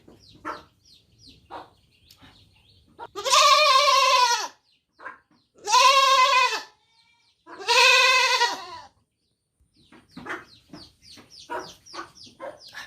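A goat bleating three times, each a loud, wavering call of about a second. Short, faint bird calls come in and out around it, clustering in the last few seconds.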